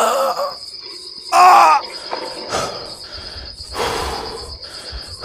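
Crickets chirping steadily in a fast, even pulse, with a short, loud, pitch-bending voice-like sound about one and a half seconds in and a few brief noisy swells later on.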